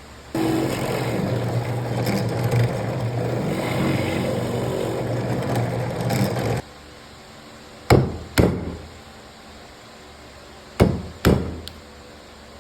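About six seconds of a steady, rough sound with a low hum in it, then four sharp blows on wood in two pairs, the sound of joinery being struck home with a mallet during mortise work.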